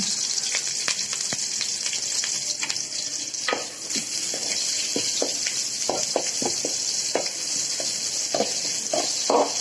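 Sliced onion and curry leaves sizzling steadily in hot oil in an aluminium kadai. From about three and a half seconds in, a metal spoon stirs them, scraping and clicking against the pan.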